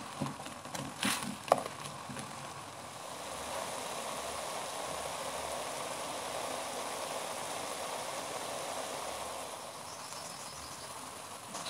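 Instant ramen noodles and scrambled egg frying in oil in a wok: a steady sizzle that swells about three seconds in and eases near the end, after a couple of sharp clicks in the first two seconds.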